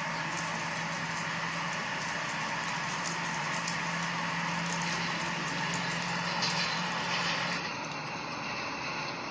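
A train running steadily, a constant low hum under a hiss. The hum and the upper hiss drop away about three-quarters of the way through.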